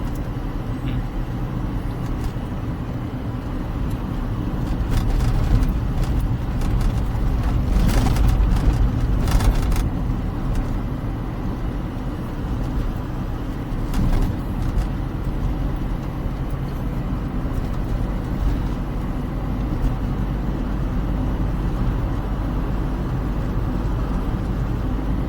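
Small car driving along: a steady low drone of engine and road noise. A few brief, louder knocks or rattles come about a third of the way in and again a little past halfway.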